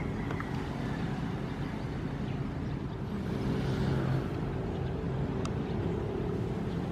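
Ocean waves washing over a steady low rumble, with one wave swelling up and falling away about three to four seconds in.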